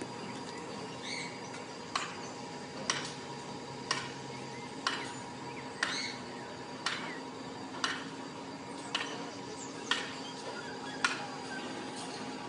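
Sharp, evenly spaced ticks, about one a second, over a steady hum.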